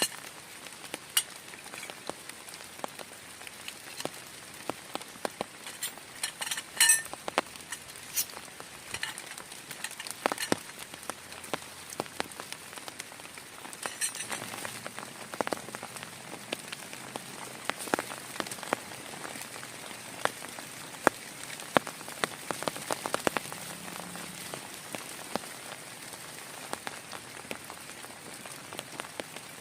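Steady rain falling, with many separate drops tapping sharply and irregularly over the hiss.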